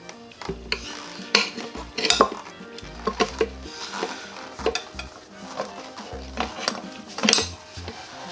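Irregular metallic clinks and knocks of hand tools working on a scooter wheel during a tyre change, over background music.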